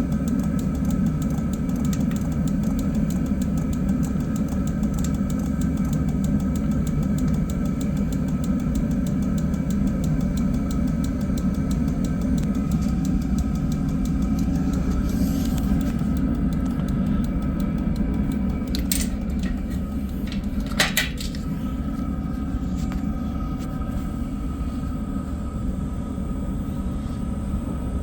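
Chinese diesel heater running with a steady low combustion-and-blower rumble. Two short, sharp clicks come about two-thirds of the way through, after which the rumble is a little quieter.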